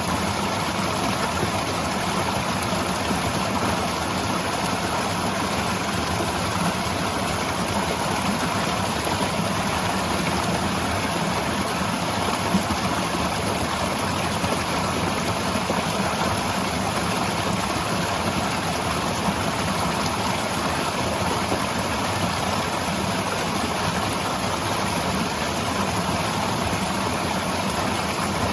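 Waterfall: a steady, unbroken rush of falling water, with one brief tick a little before halfway.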